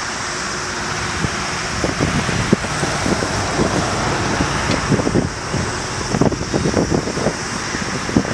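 Boeing 777-200ER's twin GE90 turbofans at takeoff thrust: a loud, steady rush of jet noise with irregular low crackling rumbles that thicken after about two seconds.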